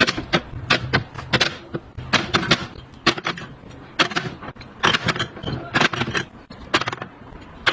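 Containers and packaged food being handled and set into a refrigerator, with irregular clicks, taps and knocks several times a second over a faint low hum.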